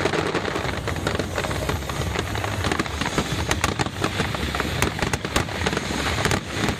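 Aerial fireworks in a finale barrage: a dense, continuous crackle of many overlapping pops and cracks, with bursts over a low rumble.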